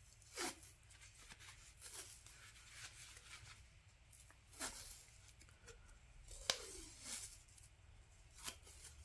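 Faint, scattered clicks and light scrapes of shock absorber parts being handled during disassembly. The sharpest click comes about six and a half seconds in.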